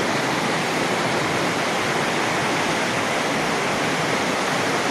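Fast-flowing floodwater rushing past in a steady, unbroken torrent.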